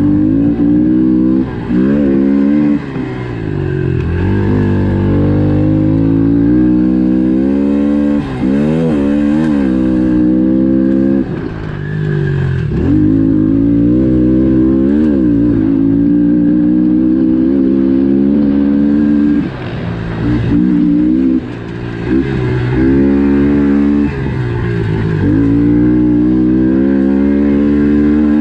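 110cc single-cylinder four-stroke pit bike engine being ridden hard around a dirt track. It revs up and drops back again and again as the throttle is opened and chopped, with short dips in loudness between pulls.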